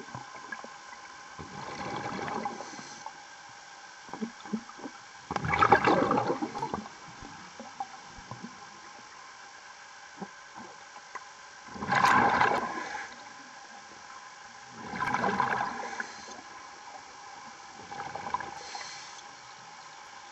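Diver's exhaled breath bubbling out of a scuba regulator underwater, in five irregular bursts a few seconds apart, the loudest about six and twelve seconds in. A steady hum with a few fixed tones runs underneath.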